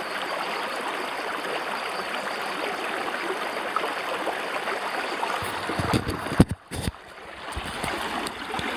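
River water rushing steadily over rocks, a continuous stream sound. About two-thirds of the way through, a few dull low thumps are heard and the water sound briefly drops, then it comes back.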